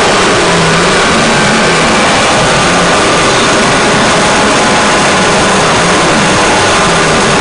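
Harsh noise and drone music: a loud, unbroken wall of distorted hiss with a low hum that wavers up and down and a few faint steady high tones.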